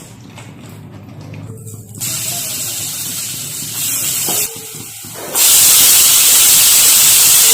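Food cooking on the stove, hissing steadily with steam and sizzle. The hiss jumps louder at about two seconds, dips briefly, and jumps much louder again a little past five seconds.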